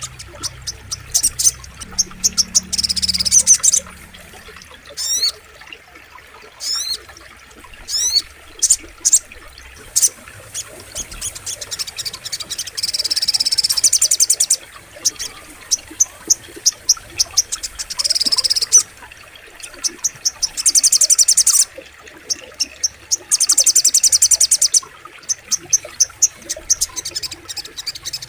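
Little spiderhunter (sogok ontong) singing: loud, high-pitched rapid trills and buzzy bursts repeated throughout, with a few quick rising whistled notes.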